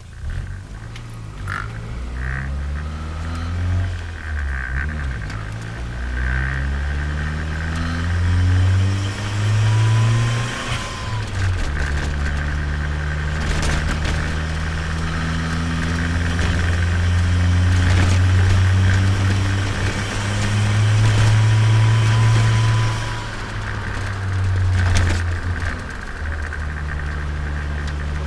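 Turbocharged Nissan Micra engine heard from onboard, accelerating with the revs rising in several pulls, then settling to a steady cruise.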